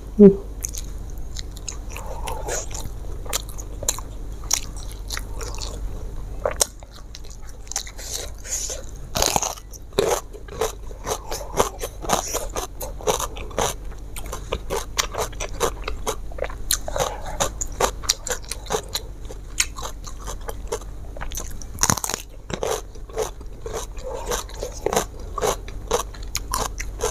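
Close-miked eating: a person chewing a meal with many irregular crunchy bites.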